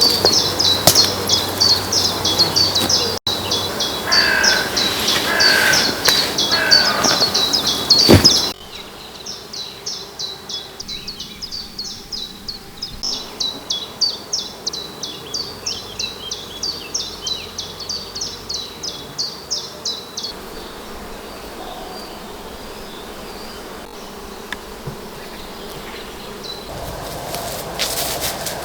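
Outdoor nature ambience: high, rhythmic chirping repeats about three times a second, with other bird calls early on. A knock comes about a third of the way in, the level drops sharply and the chirping carries on more faintly, then fades to quiet ambience past the middle.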